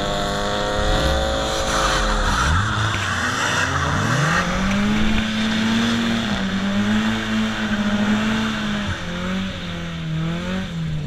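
Drift car's engine heard from inside the car, revving hard: it holds a steady note, climbs about two and a half seconds in and stays high with small dips. Tyres squeal and skid as the cars slide through the corner.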